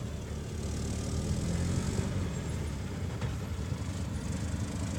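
Isuzu 10PD dump truck's diesel engine running steadily at a low, even pitch.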